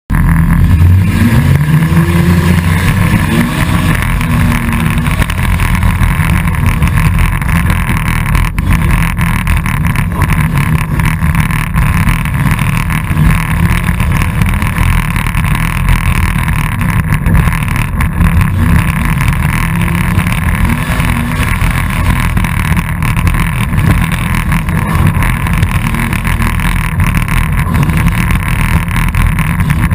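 Dirt-track race car's engine running hard, heard from inside the stripped car, with a rising rev in the first few seconds and wind noise on the microphone.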